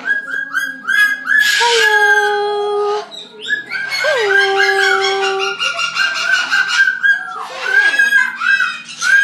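Several birds calling at once: quick repeated chirps overlapping with long, held whistled calls that swoop up at the start and then level off.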